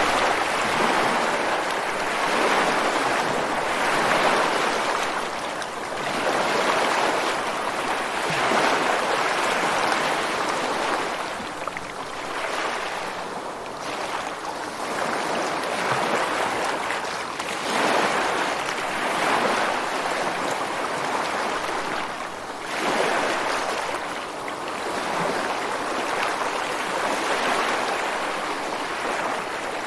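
Ocean surf breaking on the beach and rocks, a continuous hiss of rushing water that swells and eases as each wave comes in, every few seconds.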